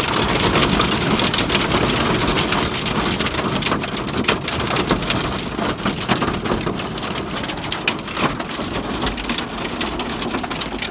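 Hail and rain pelting the roof and windows of a car, heard from inside: a dense, continuous patter of hard hits, easing slightly toward the end.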